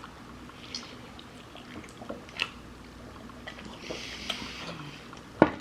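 Quiet sounds of eating fried chicken: scattered small clicks and a brief rustle about four seconds in, then a sharp knock near the end, the loudest sound.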